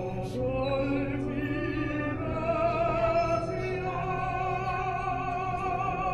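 Operatic singing: a voice holding long notes with wide vibrato.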